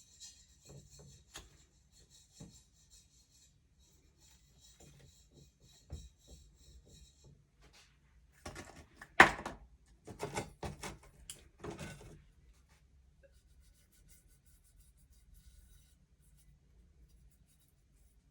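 Rubbing, scraping and handling sounds of work at a jeweller's bench, with a few sharp knocks; the busiest and loudest stretch is from about eight and a half to twelve seconds in, with a faint steady high hiss during the first seven seconds.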